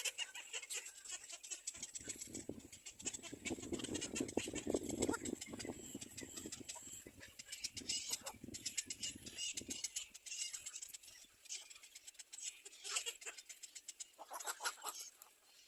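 Small birds chirping at a nest, many short high calls throughout, with a louder, lower-pitched stretch of sound from about two to six seconds in.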